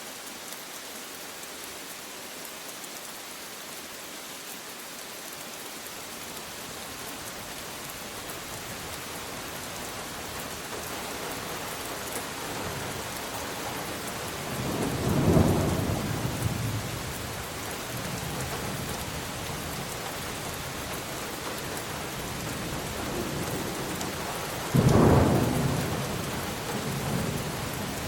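Steady rain falling, growing gradually heavier, with thunder rumbling twice: a swelling roll about halfway through and a sharper, louder clap near the end.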